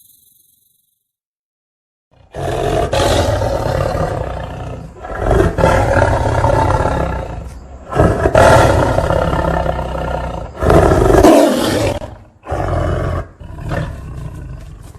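A large wild animal roaring: after about two seconds of silence, a run of long, loud roars, one after another with short breaks, tailing off near the end.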